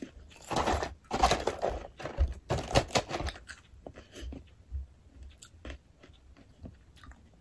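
Close-up chewing of crispy fried calamari, with loud crunching for the first three seconds or so. After that it gives way to softer, scattered chewing clicks.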